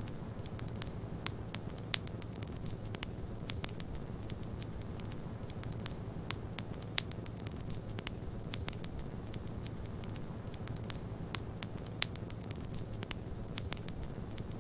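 Wood fire crackling, with frequent sharp pops and a few louder ones, over a steady low rumble of snowstorm wind.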